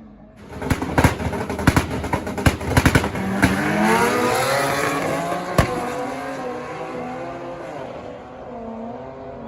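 A car's engine and exhaust crackle with a rapid string of sharp pops for the first few seconds. The car then accelerates hard, its engine pitch rising, with one sharp crack about five and a half seconds in, and runs on more steadily as it fades.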